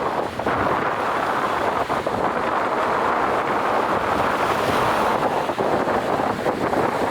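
Strong wind buffeting the microphone over the rush of sea waves, swelling through the middle and easing off near the end.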